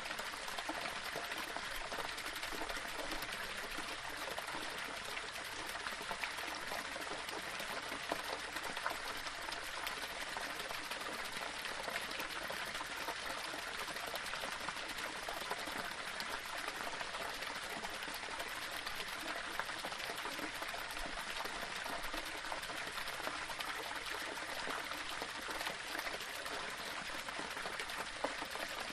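Small waterfall splashing and trickling over stones, a steady even rush of running water.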